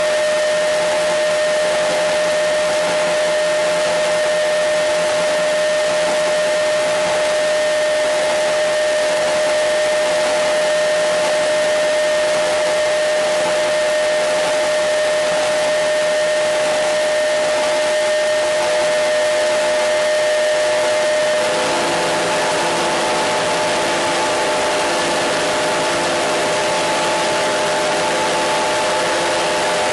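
Radio static: a steady hiss with a clear whistling tone. About two-thirds of the way through, the tone stops and a cluster of weaker, lower whistles comes in, as if the set were retuned.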